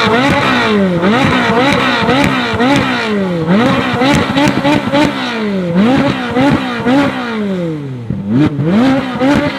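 Ferrari 458's 4.5-litre naturally aspirated V8 being blipped over and over while stationary. Each rev climbs sharply in pitch and falls back more slowly, more than a dozen times in quick succession, with a brief pause near the end.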